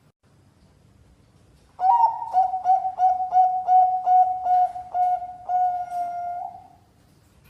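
Bangkok-type perkutut (zebra dove) cooing, starting about two seconds in: a quick run of about a dozen short, even coos, ending in one longer drawn-out coo.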